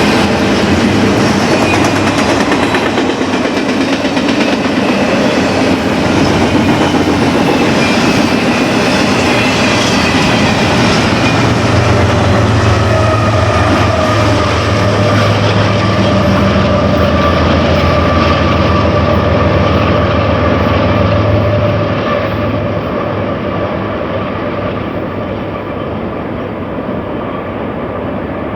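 BNSF intermodal freight train's cars rolling past, with steady rail noise and wheel clicking and faint held wheel tones. The sound tapers off over the last several seconds as the train moves away.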